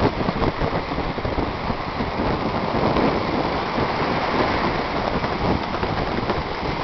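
Strong wind buffeting the microphone over the rush and splash of water, a steady noise with a heavy low rumble.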